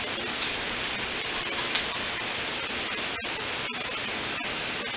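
Food frying on a hot flat-top griddle: a steady, even sizzle.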